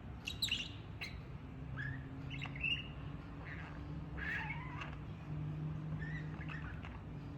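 Pet budgerigar chirping: several short, bending calls scattered through a few seconds, over a low steady hum.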